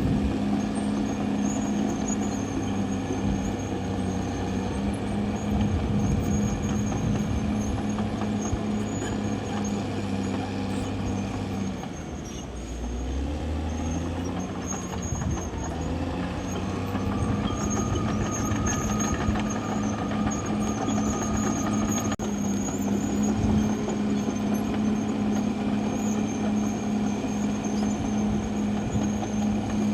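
CAT D6R XL bulldozer's diesel engine running steadily at working speed, dropping off for a few seconds about twelve seconds in and then picking back up. A thin high whine rides over it for several seconds a little later.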